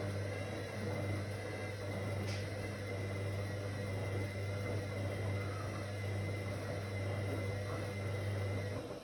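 Whirlpool AWOC 8283 washing machine's motor running with a steady hum and a thin high whine, switching off just before the end.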